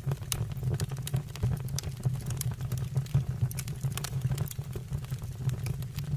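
Fireplace fire crackling: frequent, irregular sharp pops over a steady low hum.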